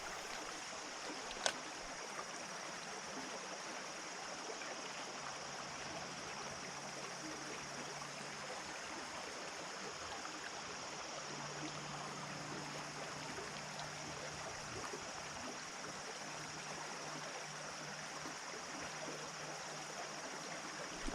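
Creek water running steadily over rocks, with one sharp click about a second and a half in.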